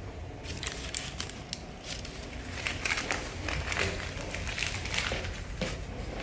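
Rustling, crinkling and light irregular clicks of small things being handled, over a low steady hum.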